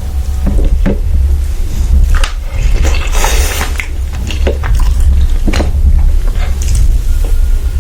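Close-miked eating and food-handling noises: scattered clicks and a crackly rustle about three seconds in, over a steady low rumble.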